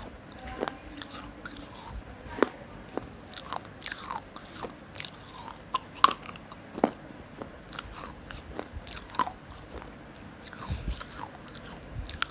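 Close-up biting and chewing on something hard and brittle: irregular sharp crunches, one or two a second, with the loudest bites about two and a half and six seconds in.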